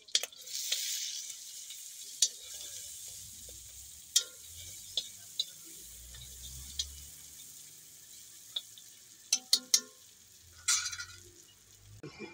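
Pork frying in oil in a metal wok, sizzling with a steady hiss that flares up loudly just after the start. A metal stirring utensil clinks against the pan a dozen times and scrapes across it once near the end.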